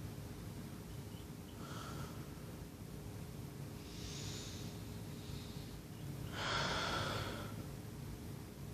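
A person breathing audibly near the microphone: a few soft breaths, the longest and loudest about six and a half seconds in, over a steady low hum.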